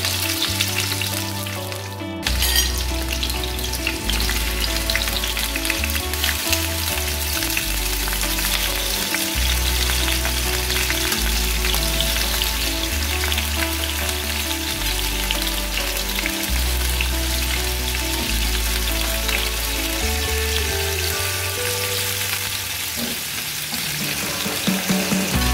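Rings of bitter gourd sizzling and crackling in hot oil in a frying pan, steadily throughout, under background music with a low bass line.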